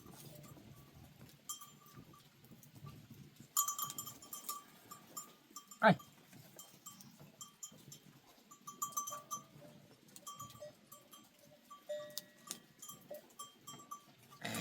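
Bells hung on goats and sheep clank and ring irregularly as the flock moves. There is a single sharp knock about six seconds in.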